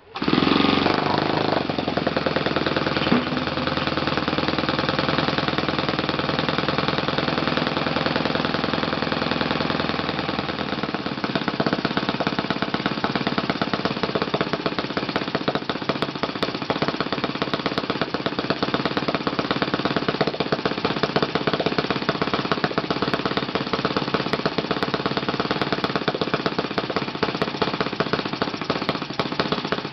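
Kalt FC-1 four-stroke glow-fuel model aircraft engine, fitted with a Yamada No. 4 glow plug and swinging a 13x6 propeller, bursts into life right at the start and runs steadily with a rapid firing beat. Its tone changes about eleven seconds in.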